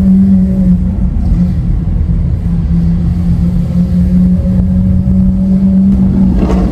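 Lamborghini Aventador SV Roadster's V12 with a Capristo exhaust running at low revs: a loud, steady, deep drone whose pitch dips slightly and comes back up. A short knock near the end.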